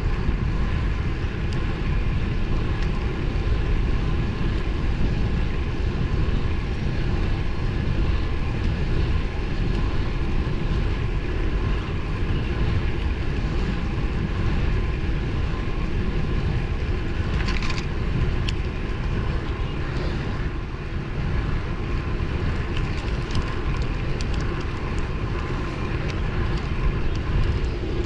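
Steady rush of wind and road noise while riding a road bike at speed, with a short crackle about two-thirds of the way through.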